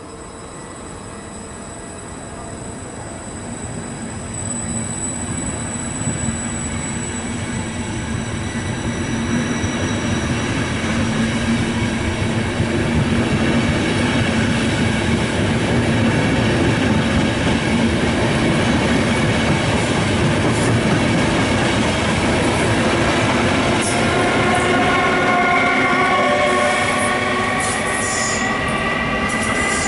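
Intercity train of coaches rolling past, the wheels rumbling and clattering, growing steadily louder. From about two-thirds of the way in, the E402B electric locomotive pushing at the rear adds a whine that rises in pitch as the train accelerates away.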